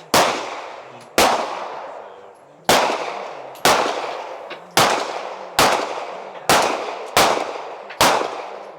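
Pistol shots fired one at a time, nine in a row at uneven spacing of about a second, each followed by a fading echo.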